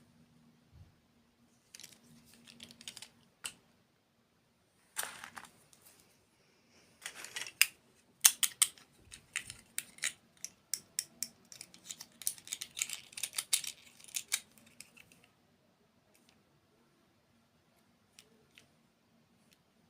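Close-miked crunching of a crisp dessert being bitten and chewed: bursts of sharp crackly crunches, densest and loudest in the middle, fading to a few stray clicks near the end.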